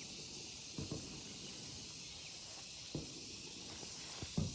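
A steady high-pitched drone of an insect chorus, with three short soft thumps about a second in, at three seconds and near the end.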